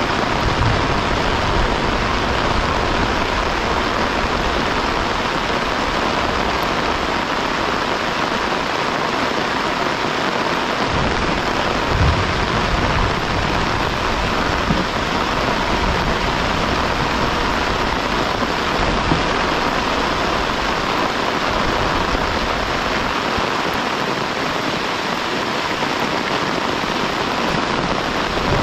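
Heavy rain falling steadily, a constant loud hiss, with a few brief low thumps scattered through it.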